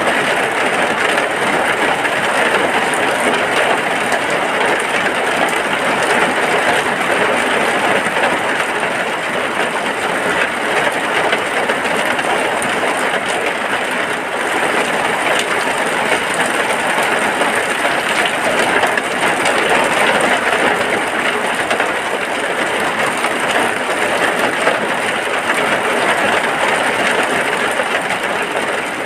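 Heavy rain falling steadily on a hut's roof, a dense, even hiss of drops.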